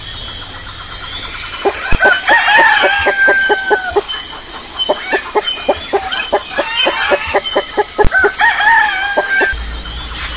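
Chicken clucking and cackling in a fast run of short calls, with two longer, drawn-out calls, one about two seconds in and one near the end.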